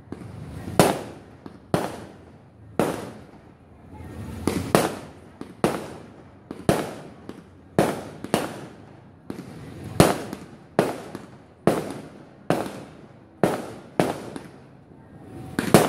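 Fireworks bursting in the air one after another: a sharp bang about once a second, each trailing off in an echo.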